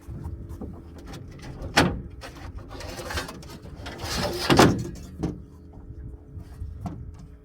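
Handling knocks and scrapes as a caught redfish is laid out for measuring: a sharp knock about two seconds in and a louder scraping thud about four and a half seconds in, over a faint steady hum.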